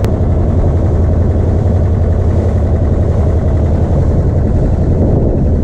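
Motorboat engine running steadily, a loud, even low drone heard from aboard the boat.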